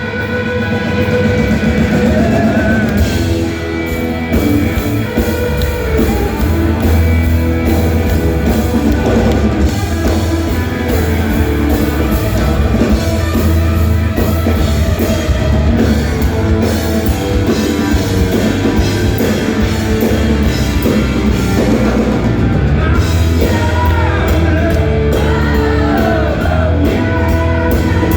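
Rock band playing live in a hall: electric guitar, bass and drum kit, with a singer's voice near the end.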